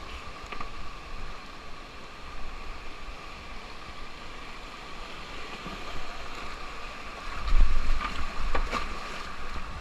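Whitewater river rushing steadily, heard on a kayaker's camera, with a louder low buffeting on the microphone about seven and a half seconds in.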